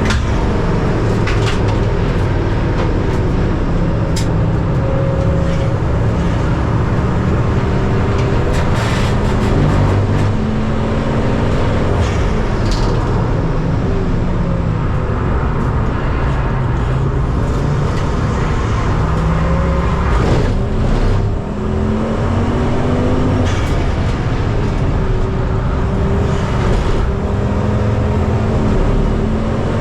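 Race car engines running hard on track, their pitch climbing and dropping again and again as they accelerate and lift.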